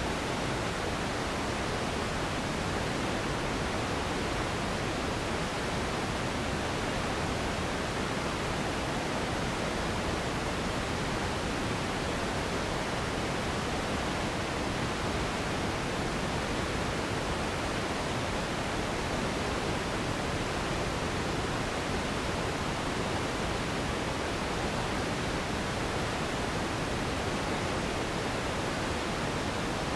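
Steady relaxation noise for sleep: an even, unchanging hiss with more weight in the low and middle range than at the top, with no rhythm or events.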